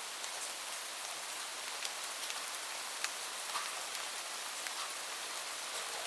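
Steady rain falling, an even hiss with scattered individual drops ticking close by on a surface.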